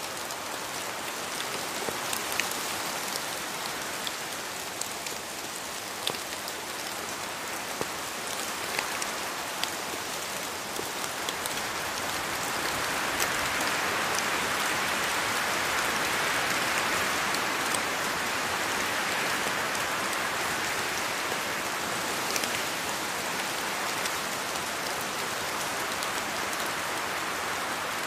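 Steady rainfall in a rainforest, a dense hiss with many distinct drops pattering on foliage. The rain swells heavier in the middle, then eases slightly.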